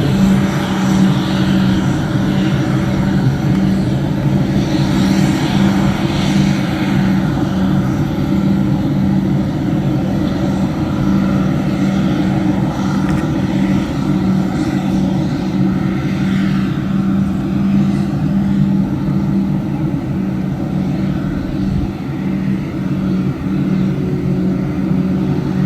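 An engine running steadily at constant speed: an unbroken low drone with a strong steady hum.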